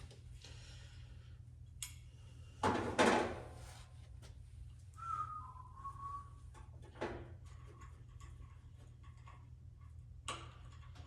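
Tools and metal parts being handled during disassembly: two sharp knocks about three seconds in, a short high whistle-like tone a couple of seconds later, then scattered light clicks over a steady low hum.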